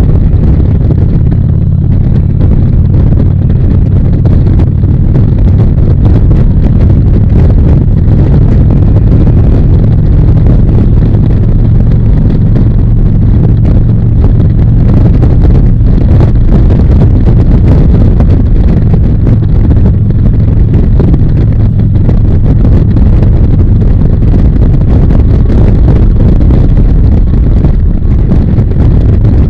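Harley-Davidson V-twin engine running at a steady cruising speed, with wind buffeting the microphone on the moving motorcycle.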